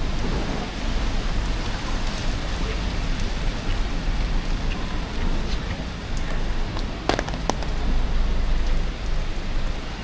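Steady rain on a city street: an even hiss with scattered sharp ticks, two louder ones a little after the middle.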